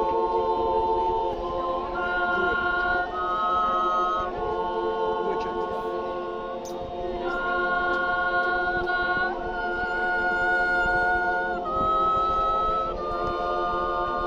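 Swiss yodel choir singing a cappella in several-part harmony: long held chords that shift every second or two, with a high voice sustained above the rest.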